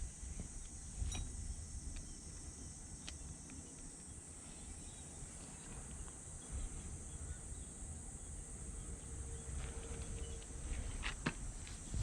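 Outdoor insect chorus: a steady high-pitched buzz over a low rumble, with a few faint clicks.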